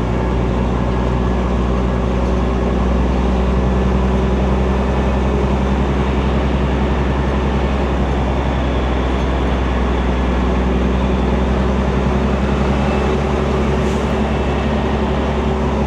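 Semi-truck diesel engine running steadily, heard inside the cab as a constant low hum under a broad rumble.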